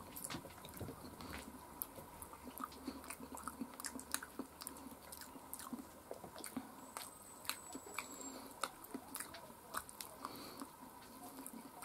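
A person chewing and biting food, faint, with many small scattered clicks and crunches.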